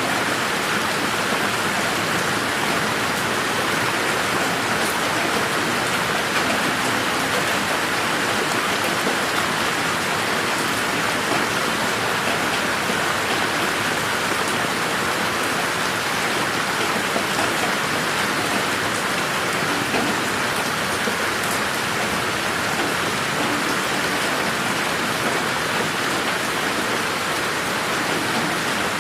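Steady rain falling in a garden, a continuous even hiss with faint individual drop ticks.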